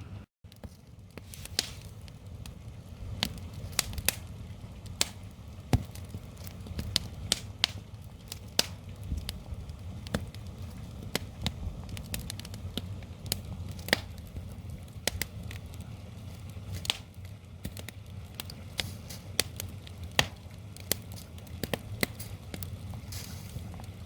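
Wood fire crackling, with irregular sharp pops from the burning logs over a steady low rumble.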